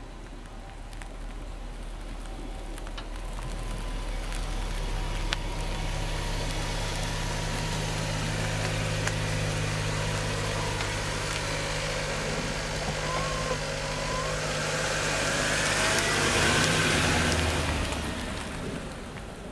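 2001 Mercedes-Benz S500's V8 engine running steadily as the car creeps forward and backs up slowly with the brake lightly applied. A broad rushing hiss from the tyres and brakes swells near the end, then fades. No loud brake squeal stands out.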